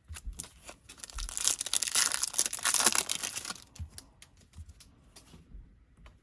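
Foil trading-card pack wrapper being crinkled and torn open, loudest for a couple of seconds about a second in, then lighter scattered crinkles and clicks of handling.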